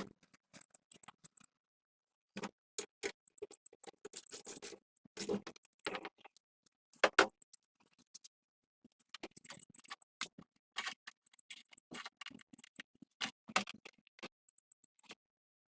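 Scattered clicks, knocks and light scrapes of hand work on generator parts, at uneven intervals with dead silence between them; the loudest is a pair of knocks about seven seconds in.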